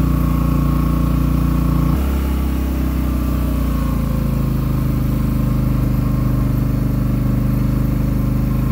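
Polaris Sportsman 850 ATV's twin-cylinder engine running steadily, its note changing about two seconds in.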